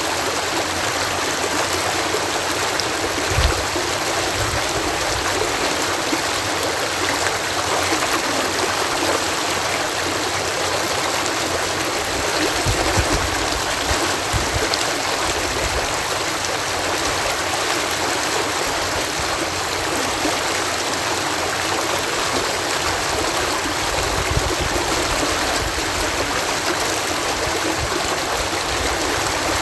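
Water cascading over a canal lock, a steady rushing splash. A few low thumps break through about three seconds in and again around twelve to fifteen seconds in.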